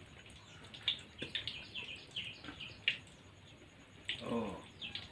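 Small birds chirping: many short, quick chirps with a few light clicks among them. A brief voice comes in about four seconds in.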